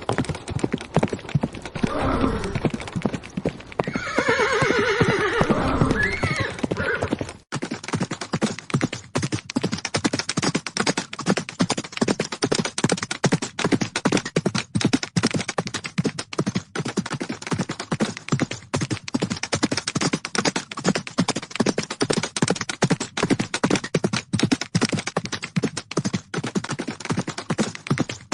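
Horses whinnying over the clatter of hooves: a short neigh about two seconds in and a longer whinny a few seconds later. Then, after an abrupt cut, a fast, unbroken clatter of hoofbeats from horses galloping.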